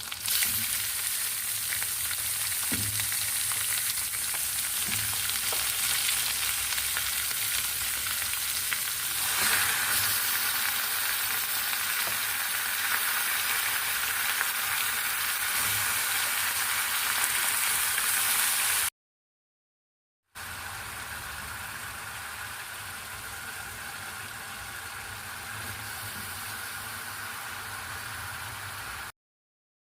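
Food frying in hot oil in a pan: a steady sizzle with a few faint knocks. It breaks off abruptly to silence twice, and is a little quieter after the first break.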